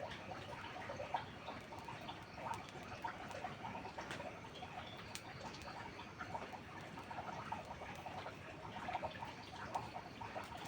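Rain pattering and dripping steadily, with scattered small crackles and sharp pops from a wood fire burning indoors.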